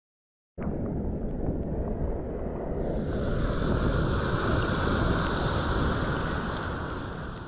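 Wind buffeting the microphone over ocean surf. It starts abruptly about half a second in and grows louder and hissier about three seconds in.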